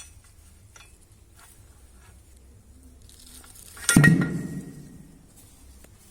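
A few light clicks of metal parts being handled, then about four seconds in a single loud metallic clank that rings briefly and fades, as a metal tool or engine part is set down or knocked against metal.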